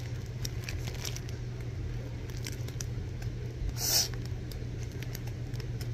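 A person chewing a mouthful of soft jalapeño bagel, with small wet mouth clicks, and a brief rustle about four seconds in. A steady low hum runs underneath.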